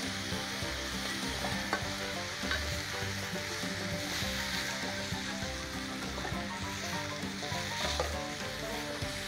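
Food sizzling steadily in a griddle over a fire pit, with a few faint clicks.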